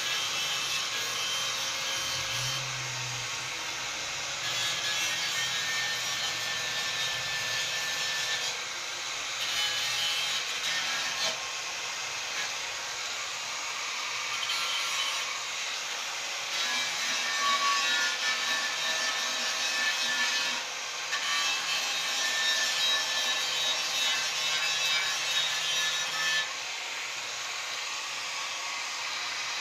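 Abrasive rubbing on the metal of an old motorcycle fuel tank, going in long passes that each last a few seconds.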